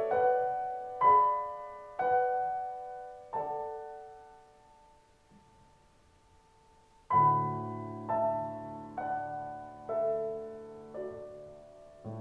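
Solo piano playing an interlude between sung phrases: four chords struck about a second apart and left to ring away, a pause of about three seconds, then the piano comes back in with low bass notes and chords struck about once a second.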